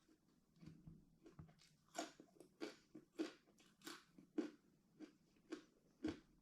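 A person chewing food close to the microphone: faint, crunchy chews in a steady rhythm, a little under two a second, that grow clearer about two seconds in.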